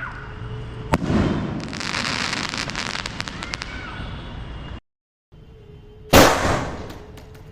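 2-inch sky shot aerial shells bursting: a sharp bang about a second in, followed by about three seconds of dense crackling. After a brief dropout, a second, louder bang comes near the end and fades away.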